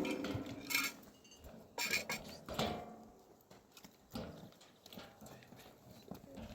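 A handful of irregular clacks and knocks, spaced unevenly, with quiet stretches between.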